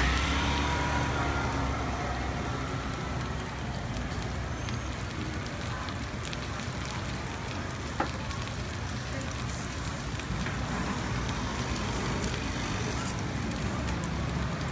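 Takoyaki frying in oil in an iron takoyaki griddle: a steady sizzle with fine crackles over a low background rumble. A single sharp click about eight seconds in.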